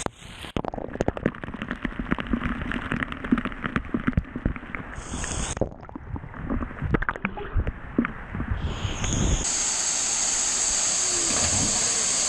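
Water sloshing and gurgling, muffled, with many irregular small knocks and clicks. About nine seconds in it gives way to a steady rushing hiss with a bright, high band on top.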